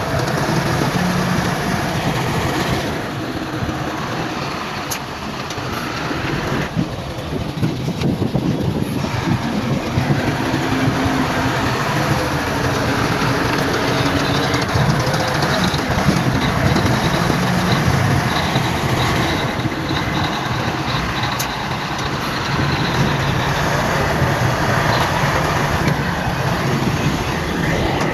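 Heavy diesel earthmoving machinery (bulldozer and dump trucks) running steadily under load, a continuous engine rumble with a few sharp clicks.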